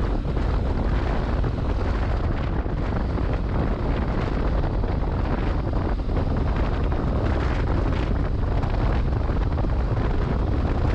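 Motorcycle riding at speed: steady, loud wind noise over the microphone with the engine running underneath.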